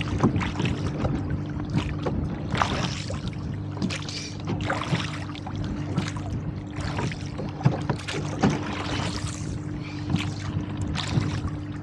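Water splashing against a rowboat's hull as it is rowed through small wind-driven chop, in short surges about once a second, over a steady low hum.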